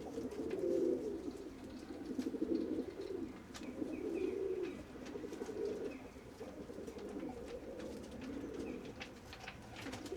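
Several pigeons cooing together in overlapping low, warbling calls, with scattered light clicks and taps.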